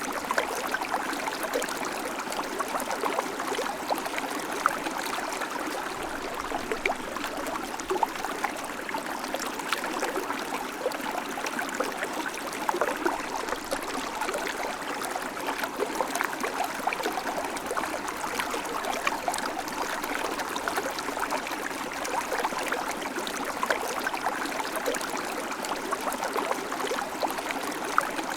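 River water flowing over stones, a steady rush with many small splashes and gurgles.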